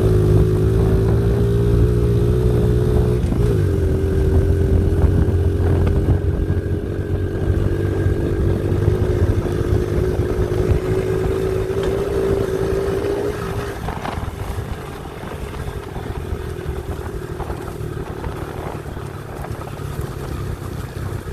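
Pit bike engine running at a steady cruise on the trail, its note dipping briefly about three seconds in. About two-thirds of the way through the steady engine note drops away and the bike runs on more quietly.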